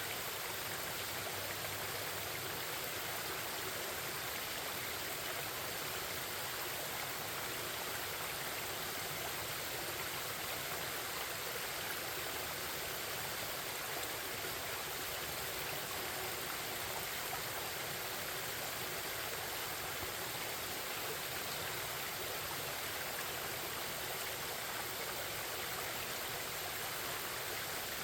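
A forest stream flowing over rocks, a steady, unbroken rush of babbling water.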